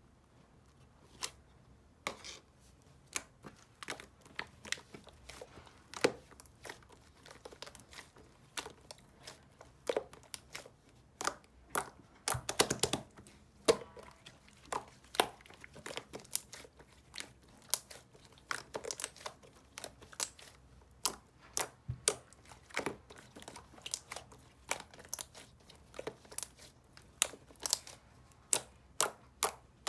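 Crinkly material being handled close up: irregular crackling, crinkling and tearing sounds, a few to several per second, with short quiet gaps between them.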